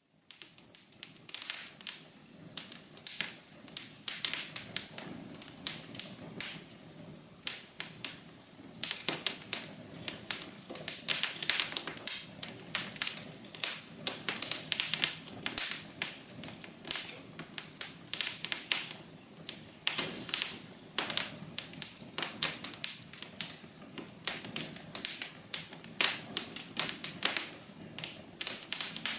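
Wood fire crackling in a fireplace: dense, irregular pops and snaps over a soft steady hiss, fading in during the first second.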